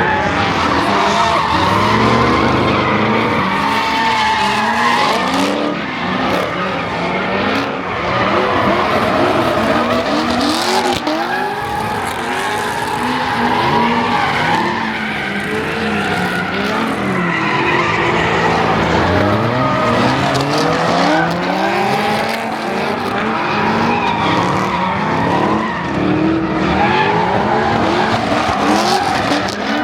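Car engines revving up and down again and again, with tyre squeal and skidding from cars doing donuts.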